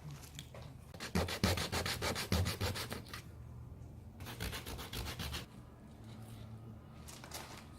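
Sandpaper rubbed by hand over cracks in a plastic fresh water tank, preparing the surface for a repair patch. It comes in runs of quick back-and-forth strokes, with short pauses between runs.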